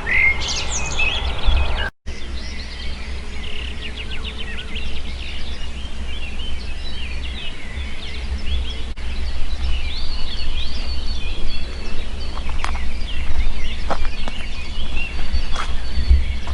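Several small birds chirping and trilling in a dawn chorus, over a steady low rumble. The sound cuts out for an instant about two seconds in.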